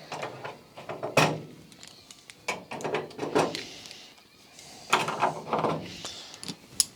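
Irregular clicks and knocks of metal parts and hand tools being handled at a workbench, with a few sharper, louder knocks.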